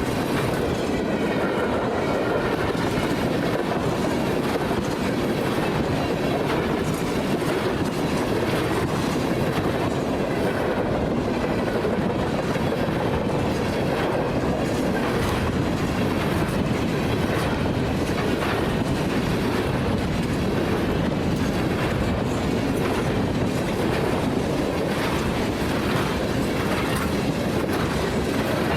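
Freight train rolling past: a steady rumble of cars with a run of clicks as the wheels cross rail joints. A faint wheel squeal is heard in the first few seconds.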